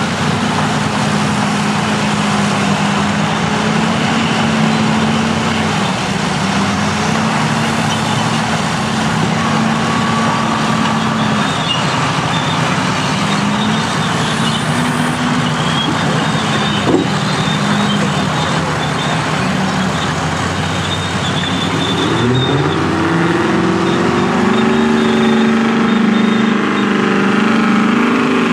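Large diesel engines of heavy earthmoving machines running under load with a steady note. About 22 seconds in, one engine revs up and holds at a higher pitch.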